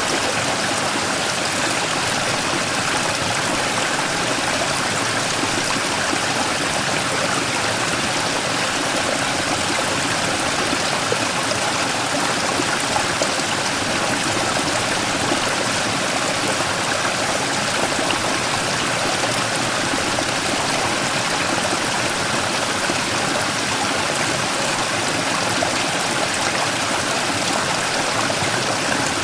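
Mountain stream flowing and splashing over a large rock in a small waterfall: a steady rushing with a fine trickling edge.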